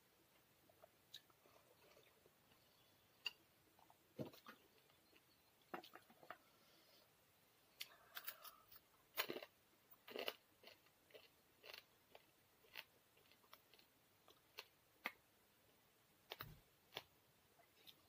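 A person chewing and crunching fried fish close to the microphone: scattered crisp crunches and wet mouth clicks, busiest around the middle.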